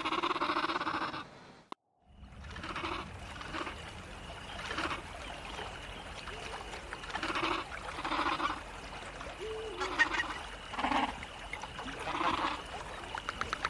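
Dinosaur creature sound effects: a longer call that cuts off abruptly into a brief silence, then a run of short honking squawks about once a second.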